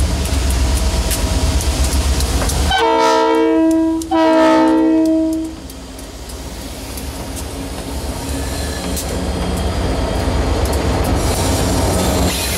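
Diesel freight locomotives of a grain train passing close by, engines running. About three seconds in, the lead unit sounds its multi-note air horn in two blasts back to back. Then the trailing engines and the wheels of loaded grain hopper cars clatter past.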